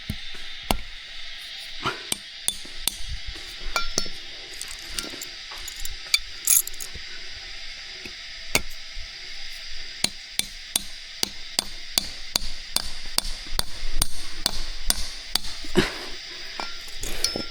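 Irregular sharp knocks and clicks, at times several a second, over a steady high hiss.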